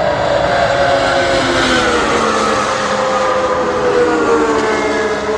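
Several Ferrari Formula 1 car engines running at high revs together, their pitch falling slowly across the few seconds as the cars pass and slow down.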